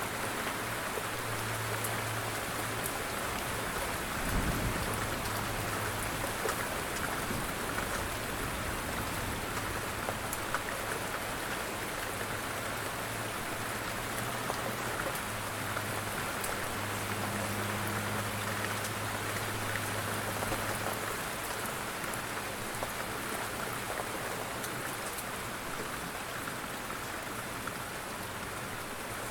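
Steady light rain falling on a surface, an even hiss with scattered individual drop ticks. A brief low rumble swells about four seconds in.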